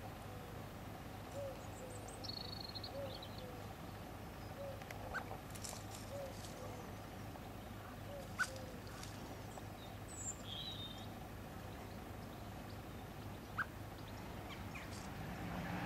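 Birdsong ambience: a bird's low, soft two-note call repeats roughly every second and a half, with a few brief high chirps from small birds. Two sharp clicks stand out, one about halfway through and one near the end.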